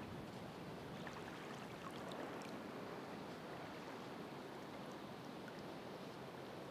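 Ocean surf washing steadily, an even rushing hiss of water with faint scattered small crackles.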